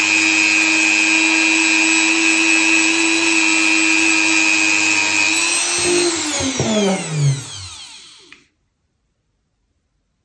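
Dremel rotary tool with a soft wheel running at steady high speed, cleaning crud out of the seal grooves of a metal detector's coil connector. About six seconds in it is switched off and spins down with a falling whine, then stops.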